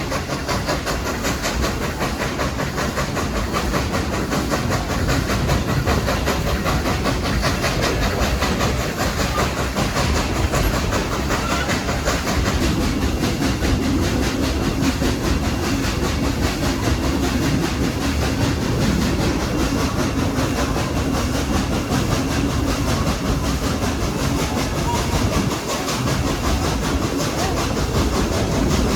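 Baldwin steam locomotive-hauled train running, heard from aboard a passenger car: a steady rumble and rattle of the cars and wheels on the track.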